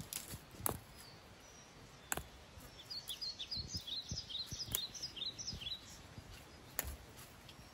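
A small bird chirping in a quick run of short, repeated notes for about three seconds in the middle. Around it come a few sharp clicks and low rustling.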